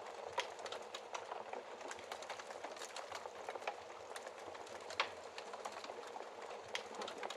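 Wood fire crackling in a fireplace: a steady hiss of burning with a string of small sharp pops and snaps, several a second, and one louder pop about five seconds in.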